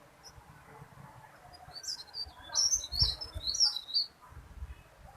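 Teralis bird chirping: a quick burst of high, sharp notes about two seconds in, lasting about two seconds.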